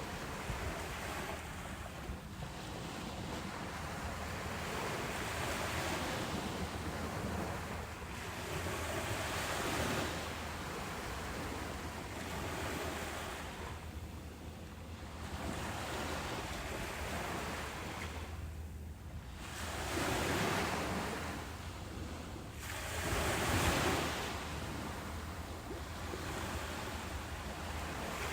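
Ocean waves breaking on a beach and washing back, a steady surf that swells and ebbs every few seconds, with its loudest surges about two-thirds of the way through.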